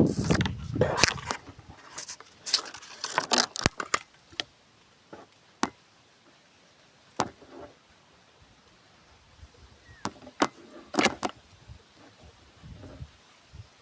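Irregular rustling and sharp clicks, dense for the first few seconds, then sparse single clicks with a brief flurry of rustling near the end.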